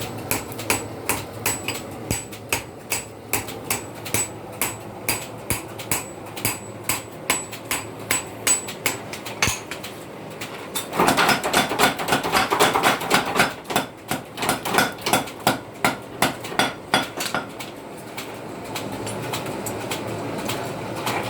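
Blacksmith's hammer striking steel on an anvil while forging a sickle: regular blows about two a second with a high ring, then a faster, louder run of blows about halfway through. The blows stop near the end, leaving a steady noise.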